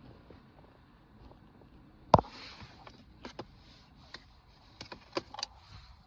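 A series of sharp clicks and taps over a faint hiss, one much louder click about two seconds in and a cluster of smaller ones near the end.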